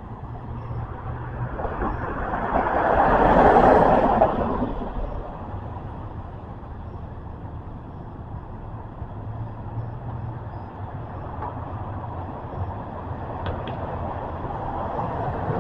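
A motor vehicle passing close by, its noise swelling and fading over about four seconds, over a steady low rumble of traffic.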